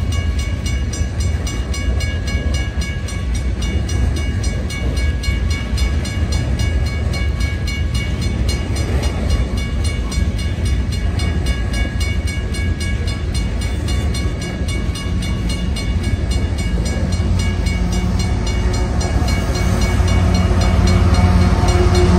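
Loaded coal cars rolling past a grade crossing, a steady rumble of wheels on rail, with the crossing bell ringing in rapid, even strokes. Near the end the engine of a GE ET44AH diesel locomotive grows louder as it comes alongside.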